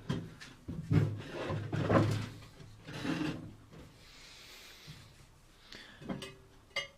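Knocks, rubs and scrapes of something being handled and shifted to make it sit level in a microwave. They come in a busy cluster over the first few seconds, then a few sharp clicks near the end.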